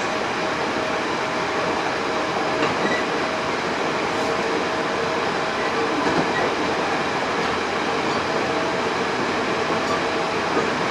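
Running noise heard inside a Hankyu 8000 series train (set 8006F, Toshiba GTO-VVVF): wheels on rails at a steady speed, a dense even rumble with faint steady humming tones.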